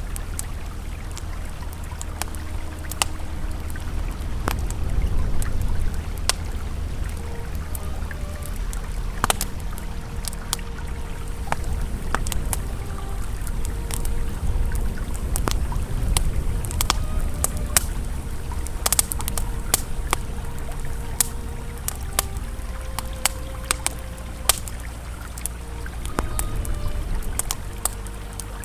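Campfire crackling with frequent sharp pops over the steady low rush of a flowing river. Soft, sustained ambient music tones sit underneath.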